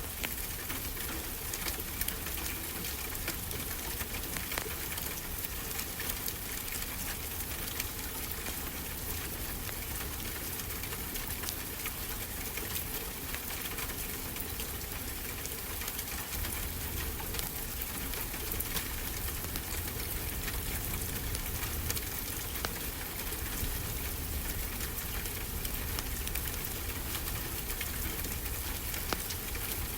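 Wood fire crackling with frequent small pops over a steady hiss, with a low steady rumble of ocean surf beneath.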